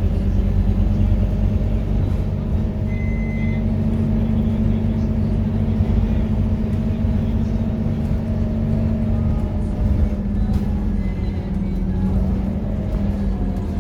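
Scania K230UB bus's five-cylinder diesel engine running steadily with a deep rumble and a constant engine note.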